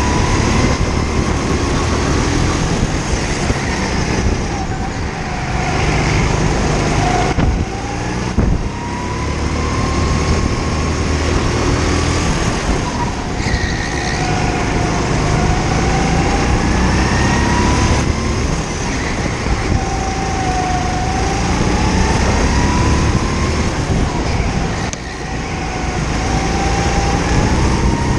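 Indoor go-kart engine heard on board, its pitch repeatedly rising under acceleration and falling back as the throttle is lifted for corners. It drops off briefly about five, eight and twenty-five seconds in.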